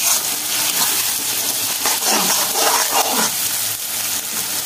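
Sliced onions and garlic paste sizzling steadily in hot mustard oil in a kadai, with a spatula stirring through them at first.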